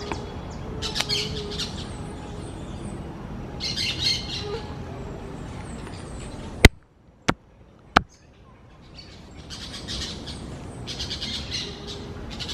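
Parakeets calling in bursts of high chirps. Just past halfway, three sharp clicks come with a short near-silent gap between them, then the calls return.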